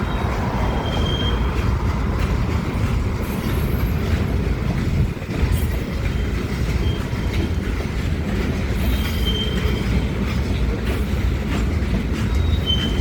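Loaded gravel train cars rolling past with a steady heavy rumble of wheels on rail. Short, high wheel squeals come several times.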